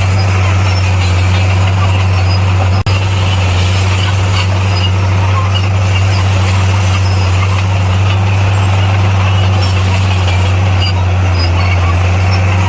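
Heavy-equipment diesel engine running steadily with a deep, even drone, broken for a split second about three seconds in.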